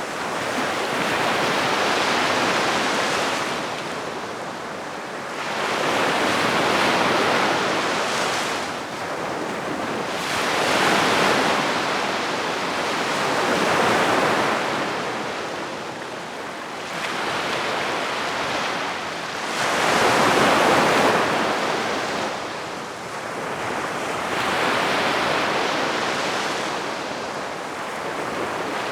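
Gentle sea waves washing onto the beach, the surf swelling and fading about every three to four seconds.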